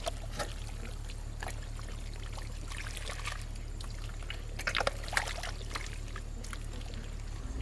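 Water trickling and splashing in small, irregular bursts over a steady low hum, the busiest splashes about five seconds in.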